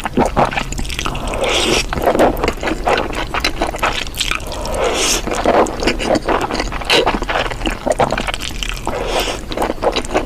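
Close-up wet mouth sounds of eating: squishy chewing and slurping with many small clicks.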